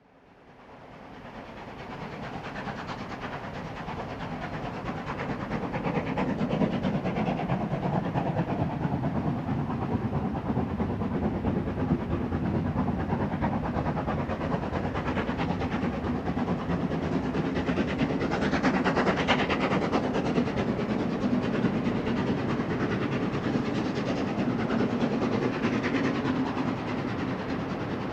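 Steam locomotive hauling a train of coaches: a steady run of exhaust beats and wheel clatter that grows louder over the first few seconds and then holds.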